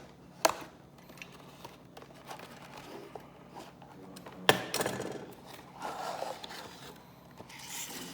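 Toy box packaging being handled and opened: two sharp knocks or clicks, the second louder, about half a second and four and a half seconds in, followed by scraping and crinkling rustles.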